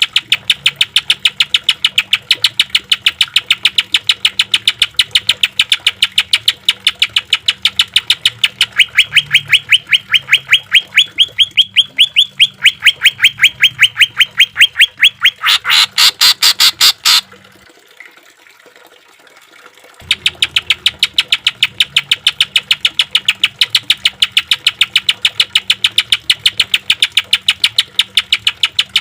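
Cucak ijo (green leafbird) singing a long rapid-fire series of short rough notes, several a second, the notes briefly louder just before a pause of about three seconds, after which the same burst resumes.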